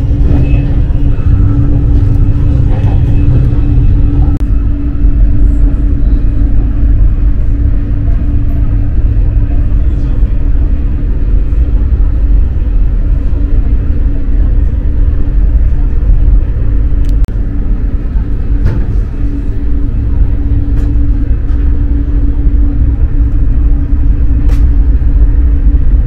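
Eurostar high-speed electric train running: a steady low rumble with a constant hum and a few faint clicks.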